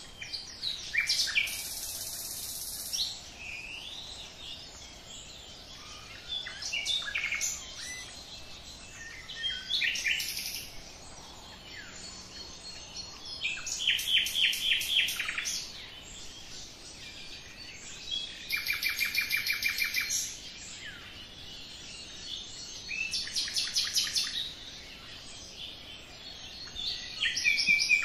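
Songbirds singing: short phrases of rapid repeated chirps and trills every few seconds, over a faint steady background hiss.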